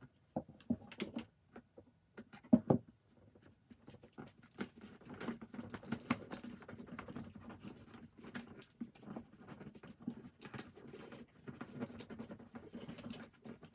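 Hands handling sticker sheets and pressing stickers onto a toy bulldozer: a few sharp taps and clicks, then a steady crackling rustle.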